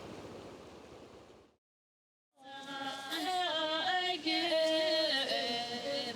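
A steady rushing noise fades out, then a short stretch of dead silence, then a voice starts singing long held notes that step up and down in pitch.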